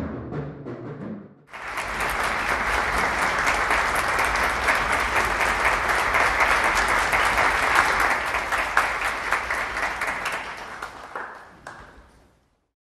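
The last notes of a band piece with timpani die away, then audience applause breaks out suddenly about a second and a half in and fades out near the end.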